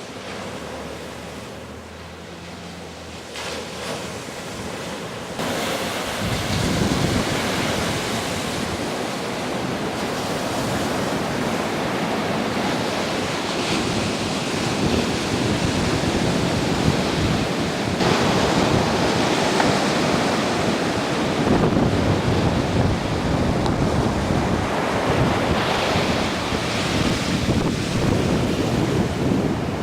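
Rushing noise of wind buffeting the microphone over water, jumping louder about five seconds in and then staying loud.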